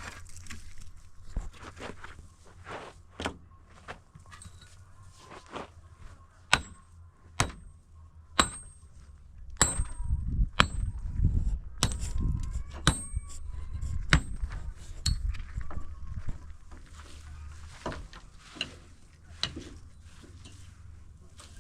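Hammer blows, sharp knocks about once a second, several of them with a brief metallic ring, as in nailing wood, with lighter knocks before and after.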